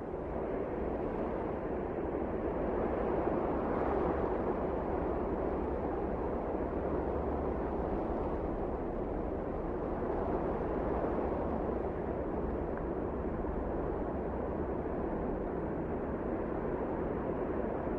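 Wind blowing steadily, a continuous rushing noise with a low rumble beneath that swells and eases gently every few seconds.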